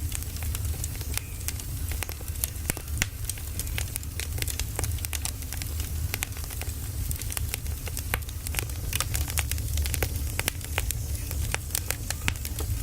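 Firewood burning, crackling with many irregular sharp snaps and pops over a steady low rumble.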